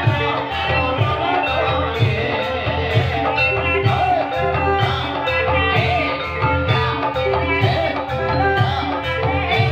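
Live ebeg accompaniment music in dangdut kreasi style, with a regular drum beat under held pitched notes and a wavering melody line.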